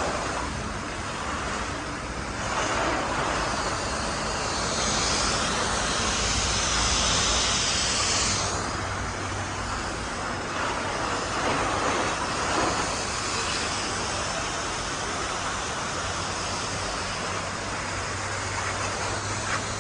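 Pressure washer spraying water, a steady hiss with a louder, sharper burst of spray from about five to eight and a half seconds in, over the low steady hum of the washer's motor.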